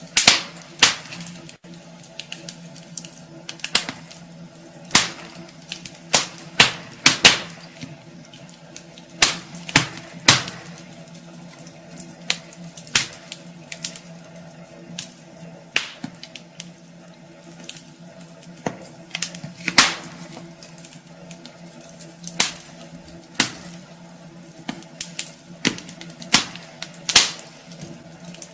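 Wood fire in a fireplace crackling: irregular sharp pops and snaps, a handful much louder than the rest, over a faint steady hum.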